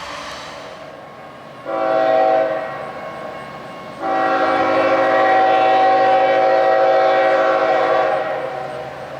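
A freight locomotive's multi-chime air horn sounds a short blast, then about a second and a half later a long blast of about four seconds, its several notes held together.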